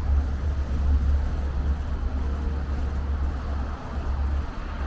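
Street traffic noise with a steady deep rumble.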